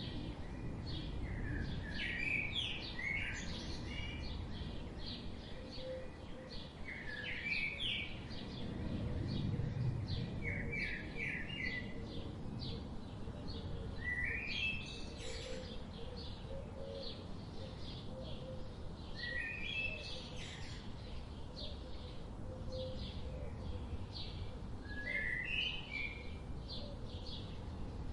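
Songbirds singing in a forest: one bird repeats a short rising phrase every five or six seconds while others chirp quickly all the while, over the low steady rush of a river.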